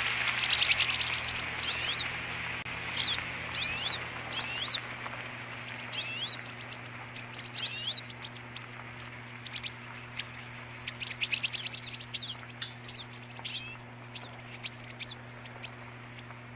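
Small songbirds calling: a series of short, swooping chirps about once a second, then quicker twittering chips and a brief trill. A steady low hum runs underneath.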